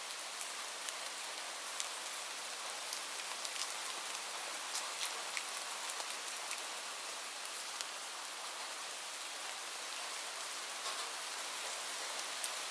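Steady rain falling, an even hiss with many small drops ticking on a surface scattered through it.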